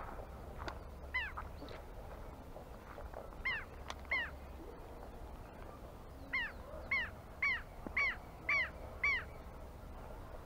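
A bird giving short, harsh, repeated calls: a few scattered ones, then a run of about six at roughly two a second near the end.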